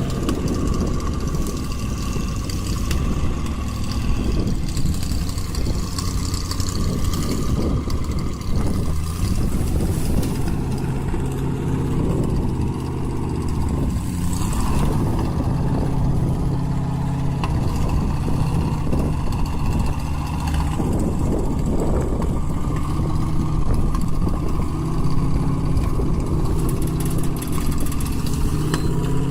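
A vehicle engine running steadily, its pitch rising and falling now and then as it revs.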